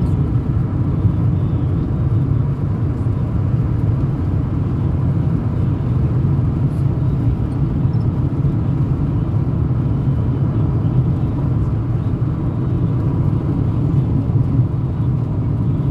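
Steady low rumble of a car driving along, engine and road noise unchanging throughout.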